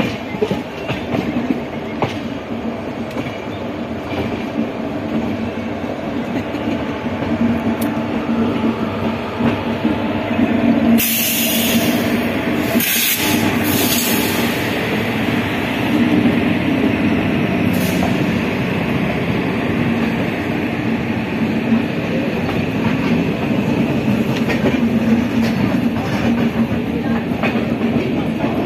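Passenger train coach running over the tracks and points as it pulls into a station, a steady rumble with wheel clatter. About eleven seconds in comes a few seconds of shrill high noise, with a shorter burst a few seconds later.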